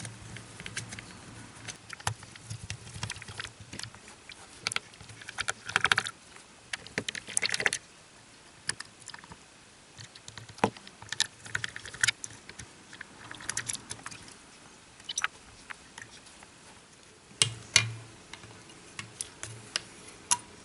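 Irregular small clicks, taps and short scratchy scrapes of hand tools and parts being worked on a mobile phone during a repair, with a louder scrape about six seconds in and another near eight seconds.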